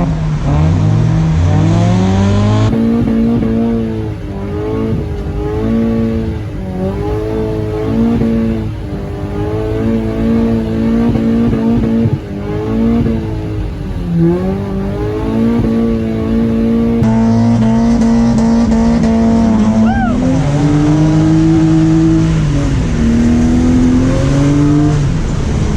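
BMW E36's engine revving up and down over and over as the car is drifted, its pitch climbing, holding and falling every second or two.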